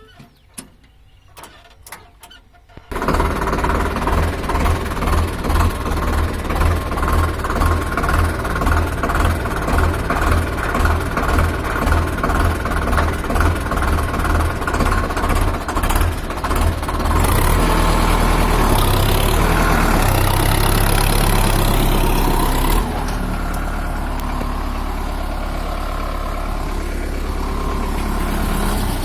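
Sonalika 750 diesel tractor engine starting about three seconds in and idling with an even, pulsing beat. About seventeen seconds in it is revved up for several seconds, then settles to a steady, faster run.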